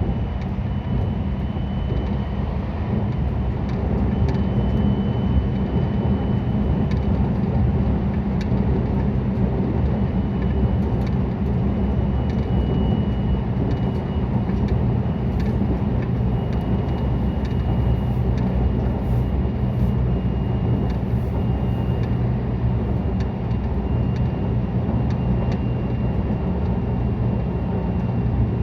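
JR West 223 series 2000 electric train running, heard on board: a steady rumble of wheels on rail with a faint high whine that comes and goes.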